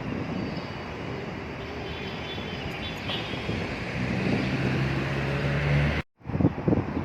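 Wind buffeting the microphone over a steady hum of traffic. A low engine drone joins about four seconds in, and the sound drops out for a moment near the end, followed by a few handling thumps.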